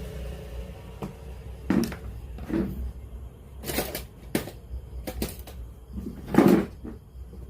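A series of hard clicks and knocks, about eight spread irregularly, the loudest about six and a half seconds in, from handling a JVC PC-W100 radio-cassette player's casing and mechanism during repair, over a low steady hum.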